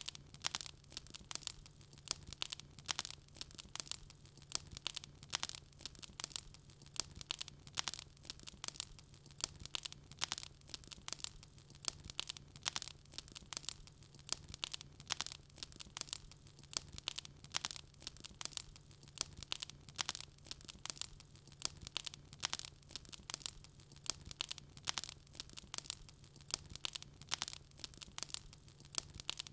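Wood fire crackling: many sharp, irregular pops and snaps in quick succession, with a faint steady low hum underneath.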